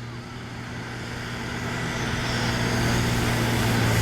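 Pulling farm tractor's diesel engine running hard under full load while dragging the weight sled. It holds a steady pitch and grows steadily louder as the tractor comes down the track.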